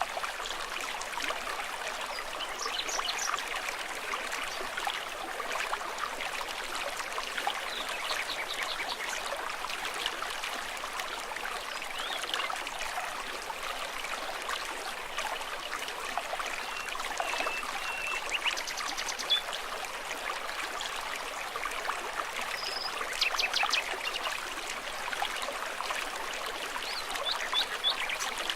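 Shallow stream water trickling and babbling steadily, with a few brief high chirps now and then.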